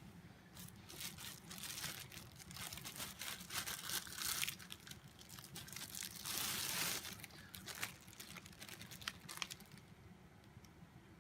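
Packaging being handled and unwrapped: irregular crinkling, rustling and tearing in bursts, dying down near the end.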